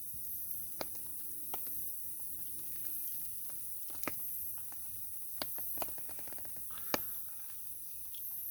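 Wood fire crackling, with about six sharp pops scattered through it, the loudest near the end.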